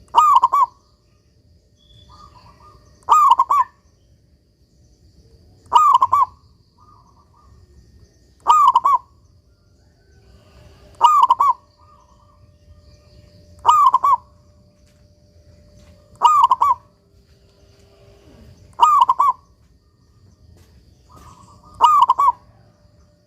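A local zebra dove (perkutut) singing steadily, one short cooing phrase about every two and a half to three seconds, nine times in a row.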